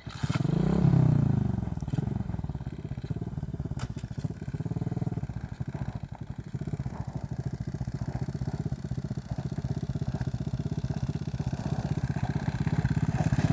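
A 110 cc pit bike's single-cylinder four-stroke engine running. It is revved up and back down about a second in and again around five seconds in, then keeps running at a steady speed.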